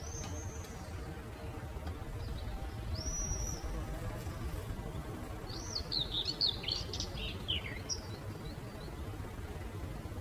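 Birds calling over a steady low rumble of outdoor ambience: a few single whistled notes, then a quick twittering run of chirps about six to eight seconds in.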